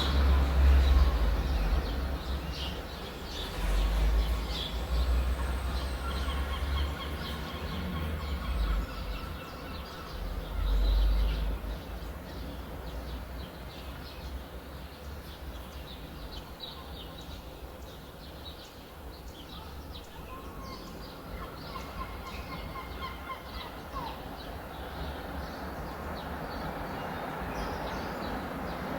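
Many small birds chirping and singing. Underneath, a low rumble comes and goes in surges through the first dozen seconds, then dies away.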